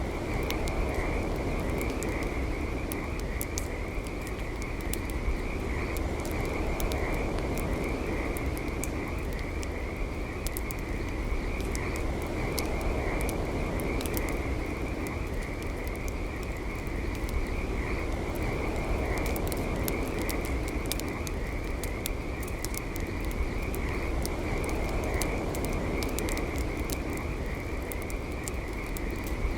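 Campfire crackling, with frequent sharp pops and snaps over a steady low rush. A continuous high-pitched trilling chorus runs underneath it.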